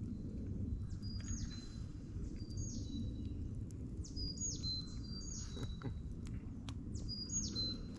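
A bird calling over and over, a short high call that steps down in pitch, repeated about once a second, over a steady low rumble.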